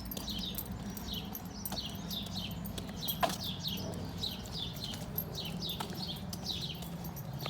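A small bird chirping: short, high, falling chirps repeated two or three times a second, over a low steady hum. One sharp knock a little past the middle.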